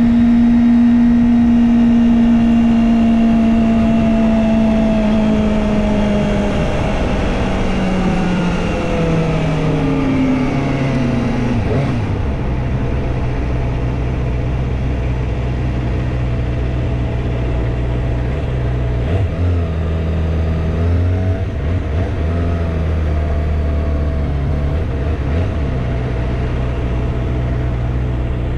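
Kawasaki Ninja ZX-25R's 249 cc inline-four engine winding down as the bike slows, its note falling steadily for about ten seconds while the wind noise dies away. It then idles steadily, with a brief rise in revs about two-thirds of the way through.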